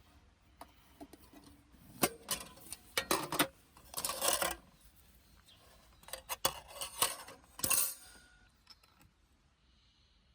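Clinks, clicks and short rattles of small hard objects being handled, in two bunches: one about two to four and a half seconds in, the other about six to eight seconds in.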